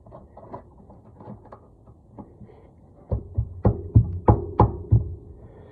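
Sharp metal knocks, about seven of them at roughly three a second, starting about three seconds in with a ringing tone behind them, as brake line hardware is knocked into place at the caliper. Before them, faint small clicks of parts being handled.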